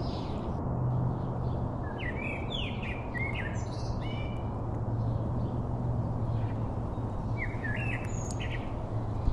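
Small songbirds chirping and singing in short, quick phrases, with one burst about two seconds in and another near the end, over a steady low background hum.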